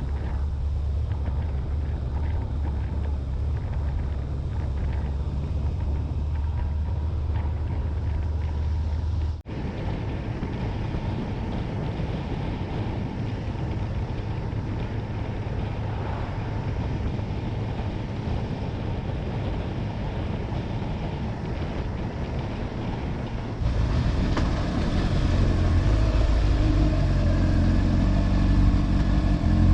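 Honda motorcycle engine running on the move, with wind and road noise. The sound drops out briefly about nine and a half seconds in, and from about 24 seconds it gets louder, with the engine's pitch stepping up and down.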